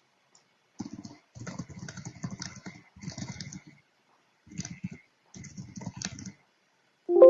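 Typing on a computer keyboard in irregular bursts of quick key clicks. Near the end a ringing chime sounds suddenly, the loudest event, and fades slowly.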